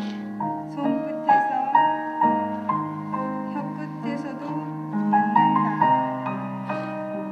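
Piano music: a slow melody of held notes over sustained lower notes.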